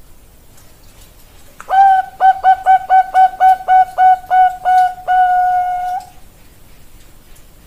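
Zebra dove (Bangkok-line perkutut) song: a quick run of about a dozen short, clipped coos at roughly four a second, ending in one long held note.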